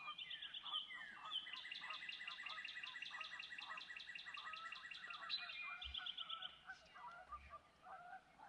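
Several songbirds singing at once in a spring morning chorus. A long, rapid trill of high repeated notes runs through the middle, over short, scattered lower calls.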